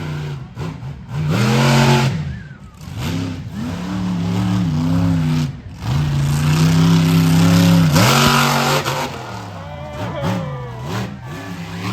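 Monster truck engine revving hard, its pitch rising and falling in repeated runs, loudest about a second in and again from about six to nine seconds in.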